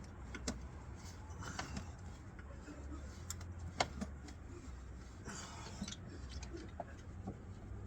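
Irregular light metallic clicks and taps from hand tools working at the crankshaft pulley of a Ford 302 V8 as the engine is turned over by hand, over a low steady hum.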